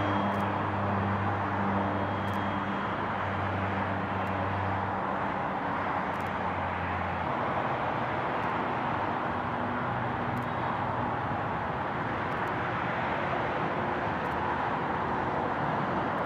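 Steady outdoor roar of vehicle and engine noise, with a low drone that fades out about halfway through.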